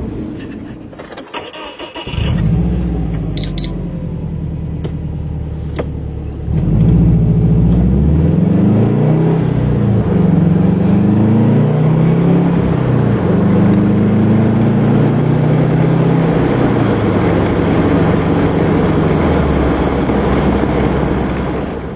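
2006 Subaru Legacy GT's turbocharged flat-four boxer engine through a cat-back exhaust with Magnaflow mufflers. The engine dies away at the start, restarts about two seconds in and idles, then from about six seconds in it revs up and down repeatedly, louder, before settling back near the end.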